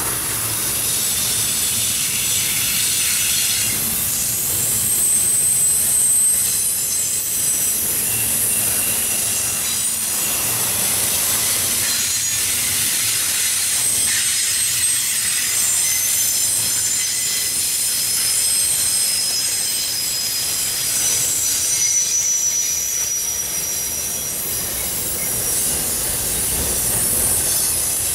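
Intermodal freight train's double-stack well cars and trailer flatcars rolling past close by: a steady rumble of steel wheels on rail, with high-pitched wheel squeal that comes and goes.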